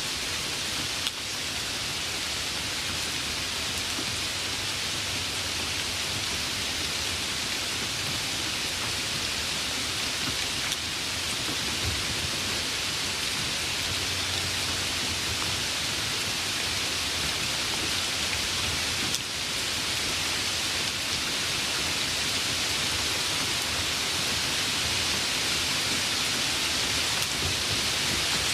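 Steady rain falling, an even hiss with a soft low rumble at times underneath.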